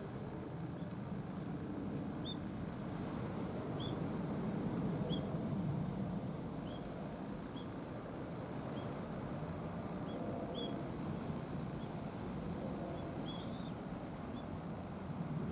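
A small bird gives short, high chirps at irregular intervals, about one a second, over a steady low rumble.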